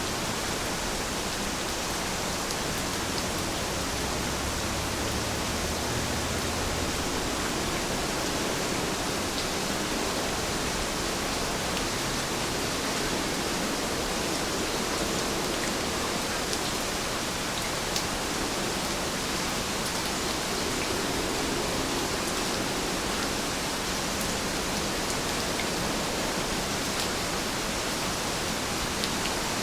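Heavy rain falling steadily: an even hiss with scattered sharper ticks of individual drops.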